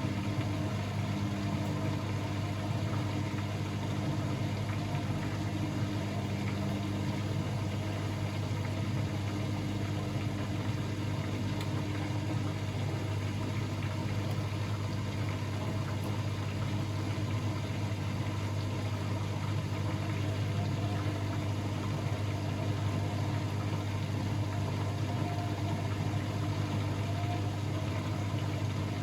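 Blomberg WAF 7442 SL front-loading washing machine running mid-programme: a steady, unchanging mechanical hum with a strong low drone.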